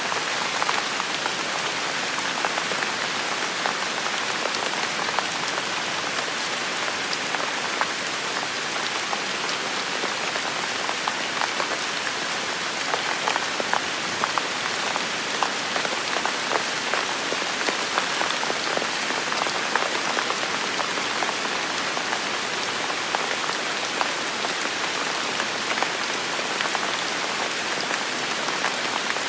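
Heavy rain falling steadily on a forest, a dense even hiss with many individual drops pattering and ticking on leaves and surfaces.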